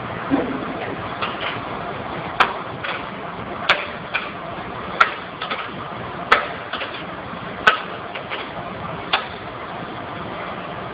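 Steam boiler machinery running: a steady hiss with a sharp click or knock about every second and a quarter, and fainter clicks in between.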